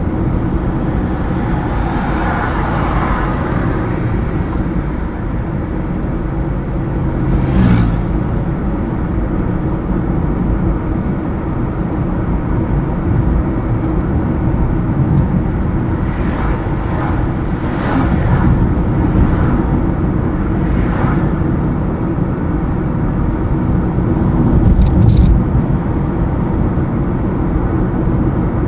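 Car driving on a highway: steady engine and tyre road noise, with a few brief louder knocks or whooshes about eight seconds in and several more between about sixteen and twenty-one seconds, and a short high chirp near the end.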